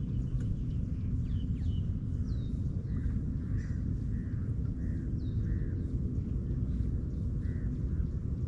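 Birds calling over a steady low outdoor rumble: several short high whistles sliding down in pitch, and a run of short harsh calls about half a second apart in the middle, with one more near the end.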